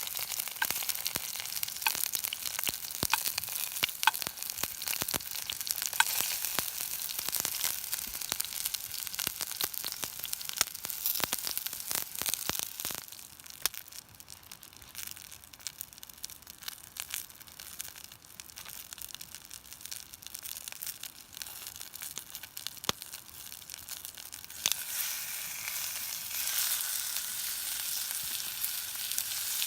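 Sizzling and crackling at a campfire: a steady hiss scattered with many sharp crackles, which dies down for a stretch around the middle and swells into a louder, even sizzle near the end.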